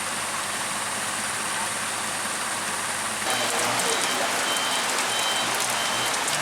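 Steady rain. About three seconds in the sound shifts, and a run of short, evenly spaced high beeps and a faint low throb join the rain.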